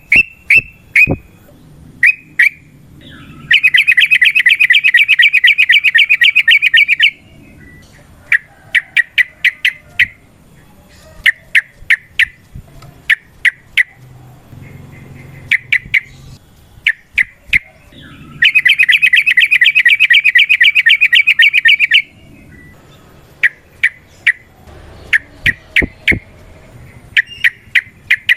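Yellow-vented bulbul (trucukan) singing loudly in short, sharp chirps that come in quick clusters. Twice it breaks into a long, fast rattling trill of about three and a half seconds, once near the start and once past the middle: the rapid 'ropel' song of a male in full territorial voice.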